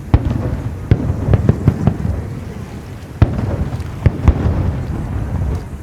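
Aerial fireworks bursting: a rapid series of sharp bangs over a continuous low rumble, with single louder bangs about three and about four seconds in.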